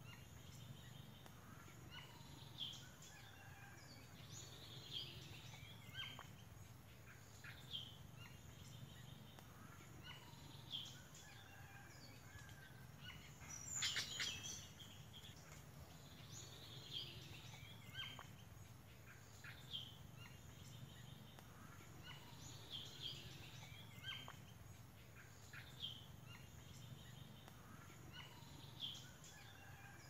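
Faint bird calls, short high notes repeating every second or two, with one louder call about halfway through, over a steady low hum.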